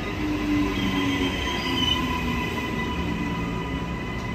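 Narrow-gauge train running past, its wheels squealing in steady high tones over a continuous low rumble.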